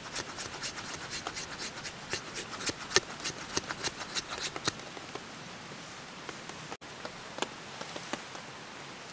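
A knife shaving strokes along a stick of wood, quick rasping strokes about four or five a second, as feather sticks are carved for fire lighting. The strokes stop partway through, leaving steady rain with scattered drop ticks.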